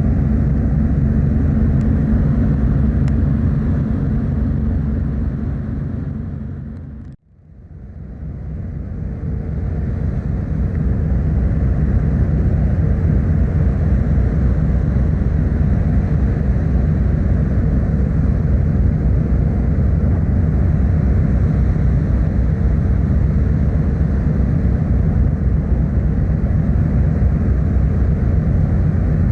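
Steady low rumble of a car ferry under way, the ship's engine drone with wind and water noise. It fades out about seven seconds in and fades back up over a few seconds.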